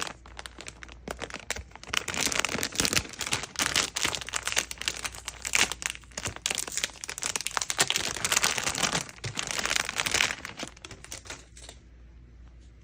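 Packaging crinkling and rustling as it is handled and opened, in dense crackly waves that stop about a second before the end.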